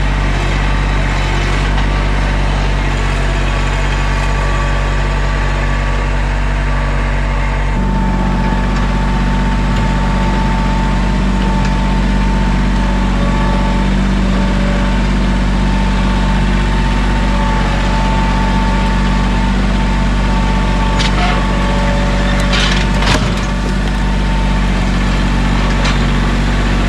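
Mahindra 1626 sub-compact tractor's diesel engine running steadily. About eight seconds in, its pitch steps up and a steady whine joins it. A few brief clicks or knocks come near the end.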